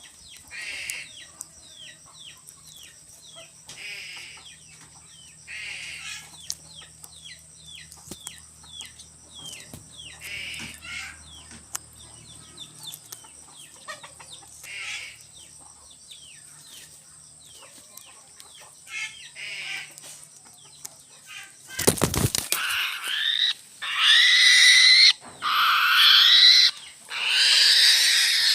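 Birds calling: a run of short, falling peeping chirps with louder calls every few seconds, then a sudden loud burst of noise near the end followed by loud, harsh squawking calls.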